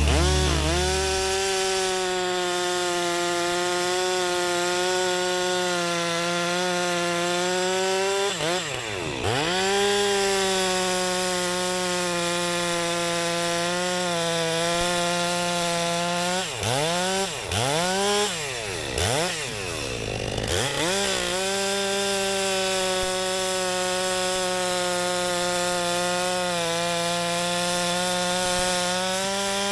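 STIHL chainsaw bucking firewood logs, held at a steady high rev through long cuts. The throttle is let off and snapped back up several times, each time dropping the pitch sharply and bringing it back: once about nine seconds in, in a quick run of drops past the halfway point, and again at the very end.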